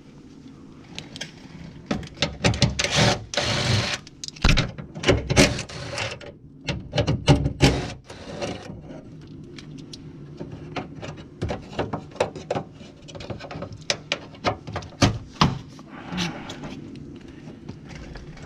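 Knocks, clicks and clatter of tools and car body parts being handled while a car's front fender and headlight are worked loose, over a steady low hum. The knocks come thick and fast from about two seconds in to about eight seconds in, then more scattered.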